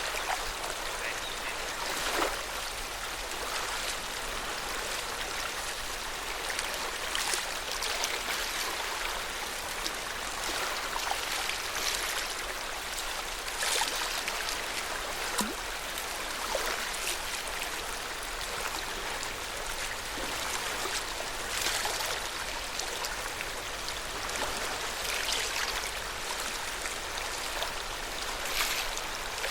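Water of Lake Yamanaka lapping and splashing at the lake's edge: a steady wash with small splashes every few seconds.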